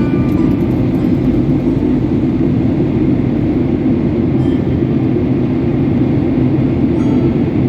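A steady, low rumble of noise with no breaks.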